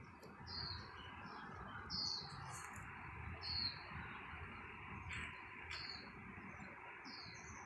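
A small bird chirping repeatedly, short high notes that slide downward, about one a second, over a steady background hiss.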